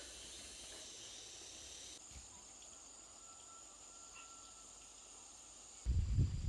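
Steady high-pitched buzzing of insects such as crickets or cicadas, heard against faint outdoor hiss. Near the end a much louder rough, scraping or splashing noise cuts in.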